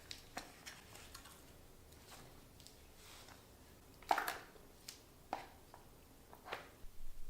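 A few scattered light knocks and clicks, as of small objects being handled, with the loudest knock about four seconds in.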